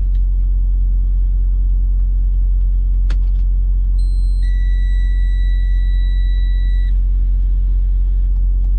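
A steady low engine rumble throughout. About three seconds in there is a click, consistent with the ignition key being turned on. About a second later a dashboard electronic warning tone sounds steadily for roughly three seconds and then cuts off.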